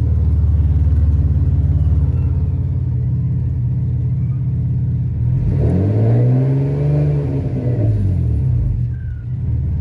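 Freshly swapped Nissan VQ-series HR V6 engine idling steadily, revved once about halfway through, its pitch rising and falling back to idle.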